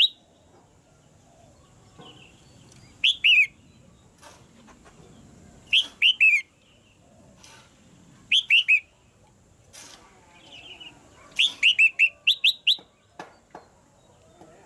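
Red-whiskered bulbul calling: short bursts of three to five quick, falling chirps, repeated about every two and a half to three seconds, with a longer run of notes near the end.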